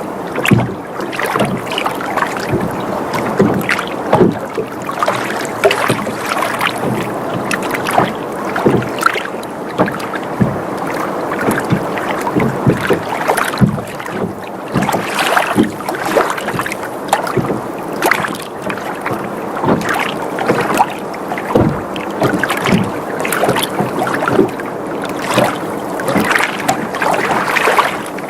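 Water sloshing and lapping against a sailboat's hull, with frequent short slaps and knocks and the creaking of the boat as it rocks.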